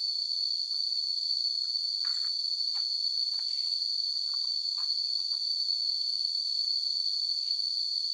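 A steady, high-pitched drone of insects, with faint scattered taps and clicks over it.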